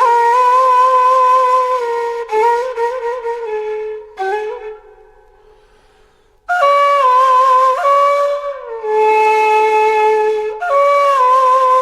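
Music: a flute-like wind instrument playing a slow melody of long held notes, with a break of about two seconds near the middle before the melody comes back in.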